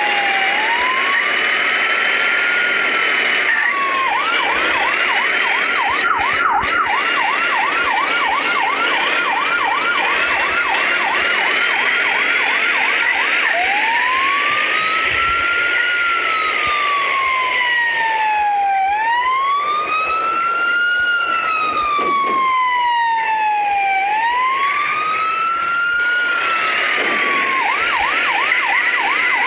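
Emergency vehicle sirens wailing: one switches between a slow rise-and-fall wail and a fast yelp, while a second, higher-pitched siren glides up and down over it.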